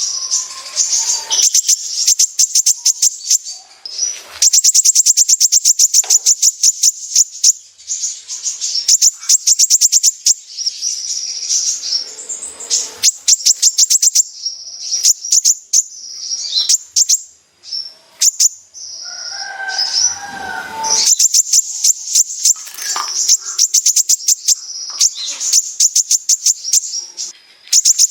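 Kolibri ninja sunbird singing its 'besetan' song: long bursts of very rapid, high-pitched rattling trills, broken by short pauses.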